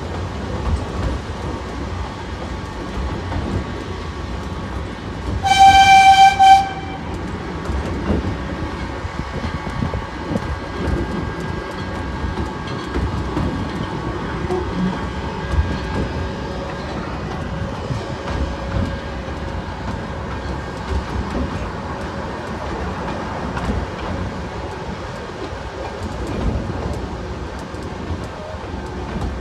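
Miniature railway train running with a steady rumble and rail clatter; about six seconds in the locomotive sounds one steady note of its whistle, about a second long and the loudest thing heard.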